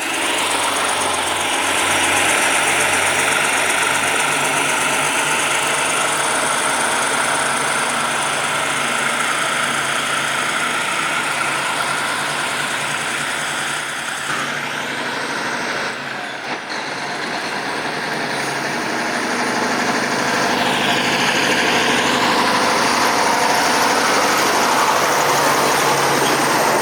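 Logging truck's diesel engine running steadily under way, with heavy road noise.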